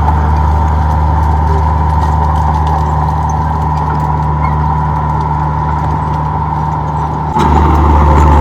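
Komatsu D31P bulldozer's diesel engine running steadily, with a steady higher whine above it. About seven seconds in it gets suddenly louder.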